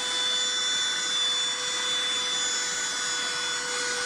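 Cordless handheld vacuum running steadily at its second power level, with a high, even motor whine.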